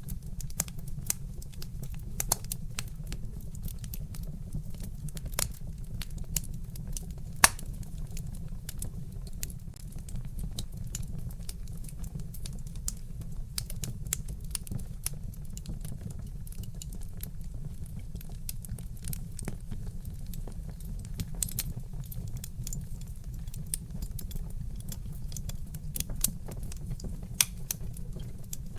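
Wood fire crackling, logs popping in quick, irregular snaps, with one loud pop about seven seconds in, over a steady low rumble.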